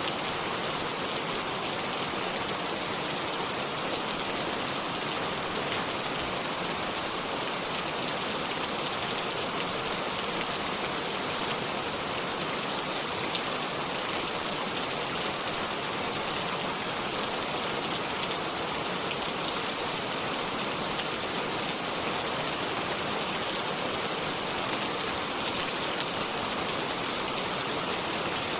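Steady rainfall: an even hiss of rain with small drop ticks scattered through it, unchanging in level.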